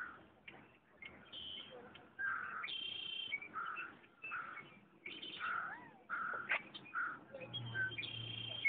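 Several birds calling and singing: a run of short harsh calls, one every half second or so, with higher held notes mixed in.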